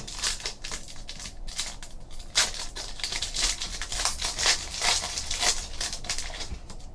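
Trading cards being handled and flipped through: a quick, uneven run of light papery clicks and rustles.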